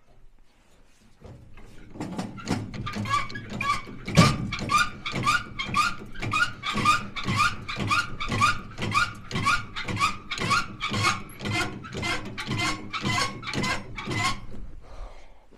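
A jack being worked to raise a trailer hitch: a steady run of strokes, about two and a half a second, each with a short rising squeak. A louder knock comes about four seconds in.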